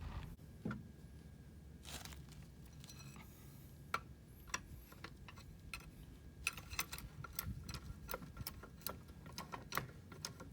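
Scattered light metallic clicks and clinks of tools being handled, sparse at first and coming more often in the second half.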